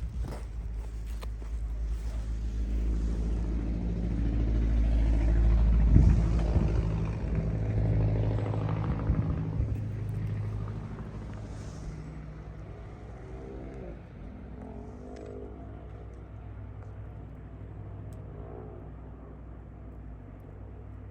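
A motor vehicle passing, growing louder to a peak about six seconds in and then fading, leaving a steady low engine hum.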